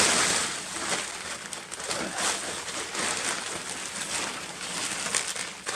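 Tarp fabric rustling and crinkling in irregular bursts as it is handled and unfolded.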